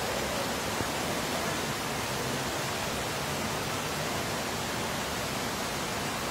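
Steady, even hiss of heavy rain pouring down onto a flooded street, with floodwater running.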